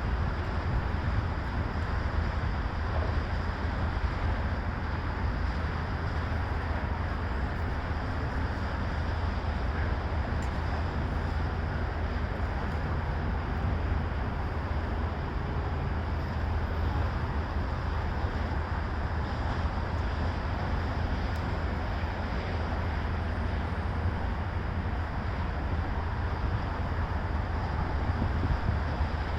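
Steady low rumble of road traffic and running engines, unbroken and even throughout.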